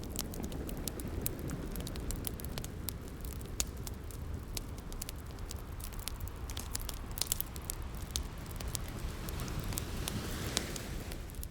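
Wood fire crackling with frequent sharp pops, over the steady low rush of ocean waves; a wave swells and washes in near the end.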